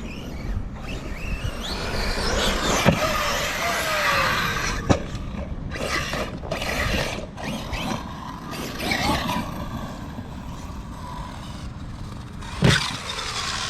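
Arrma Notorious RC stunt truck's brushless electric motor whining as it speeds up and backs off, over a steady rush of noise, with two sharp knocks about three and five seconds in.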